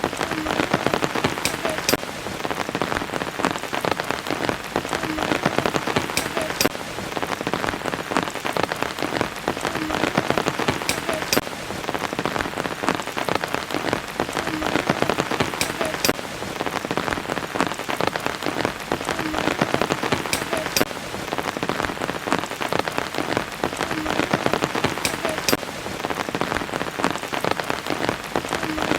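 Steady rain falling, with many separate drops heard in it. The same stretch of a few seconds repeats about every four and a half seconds: a looped recording.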